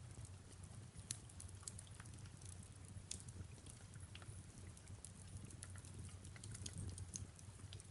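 Fireplace crackling, with scattered small pops and snaps over a low steady rumble, and soft rain falling behind it.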